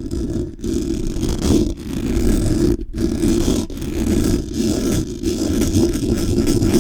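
Blue Yeti microphone being rubbed and scratched fast by hand, close up: a continuous dense rustle and scrape, broken by about four brief gaps.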